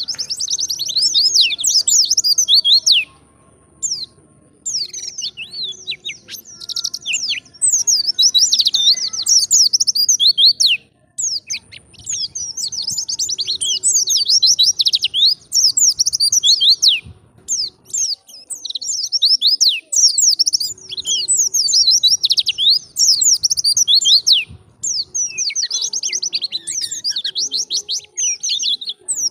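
White-eye (pleci) singing long, fast warbling phrases of high chirps and trills, broken by short pauses about three and eleven seconds in.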